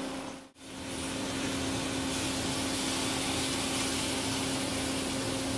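Pineapple slices frying in butter in a nonstick pan: a steady sizzle over a constant low hum, after a short dip to near silence about half a second in.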